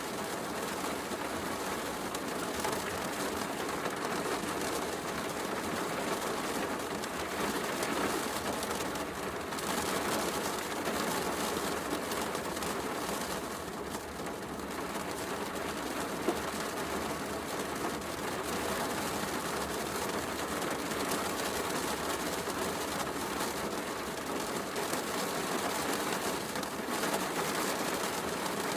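Steady heavy rain falling, mixed with a fireplace crackling, with one sharper crack about 16 seconds in.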